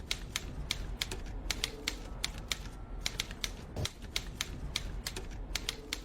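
Rapid, irregular clicking like keys being typed, several clicks a second, over a faint low hum.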